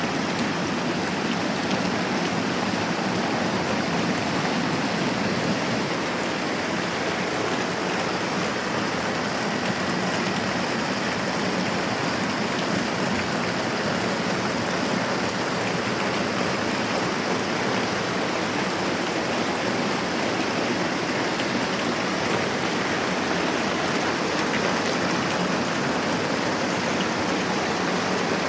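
Steady moderate rainfall, an even unbroken hiss of falling rain.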